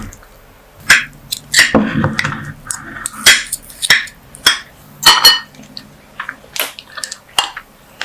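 Kitchen utensils clicking and clinking against pans and dishes in a string of sharp separate taps, with a few short scraping rustles.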